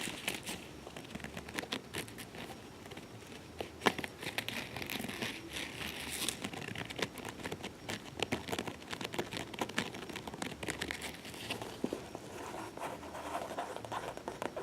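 Hands handling a soft-sided faux-leather cat carrier: crinkling and rustling of the material with many scattered taps and scratches, one sharper tap about four seconds in.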